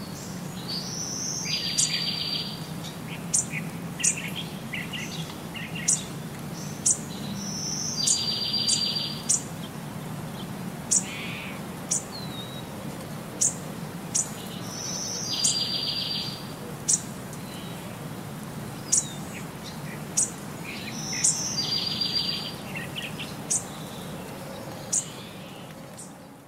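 Birdsong: short, sharp, high chirps every second or so, and a brief buzzy trill that comes back about every six to seven seconds, over a steady low hum.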